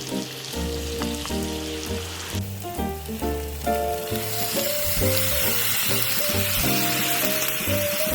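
Food sizzling as it fries, the hiss growing louder about four seconds in, under background music with a bass line and melody.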